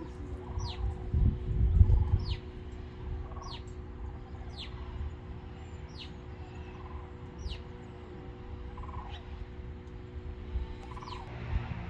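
Wild birds calling: a short call that slides down in pitch, repeated roughly once a second, over a steady low hum. A louder low rumble comes about one to two seconds in.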